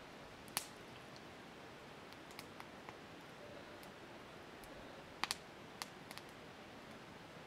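A handful of scattered sharp clicks and ticks over a faint steady hiss; the loudest is a double click about five seconds in.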